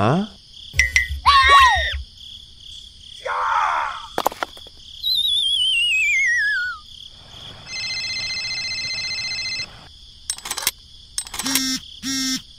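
A string of cartoon sound effects. There are short squeaks, then a wobbling whistle that falls in pitch for about two seconds, then a steady buzzing tone for about two seconds, and a few sharp clicks near the end. A steady high insect chirring runs underneath.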